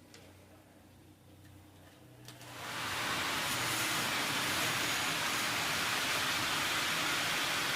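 Motor of a VW Passat's diesel auxiliary heater spinning up under power about two and a half seconds in, then running with a steady, loud rushing whoosh. Once seized, the motor now turns freely after being oiled and freed.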